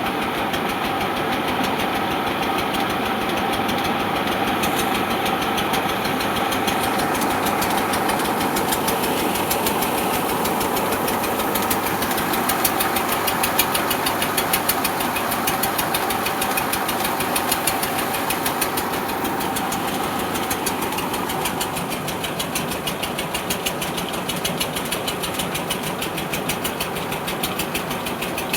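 Tractor engine running steadily with a rapid, even pulse of firing strokes. It gets a little louder around the middle and eases off in the last third.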